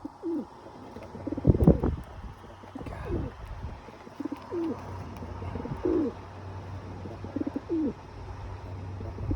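A pigeon cooing: a series of short, low, falling coos every second or so, with a loud bump or handling noise about a second and a half in.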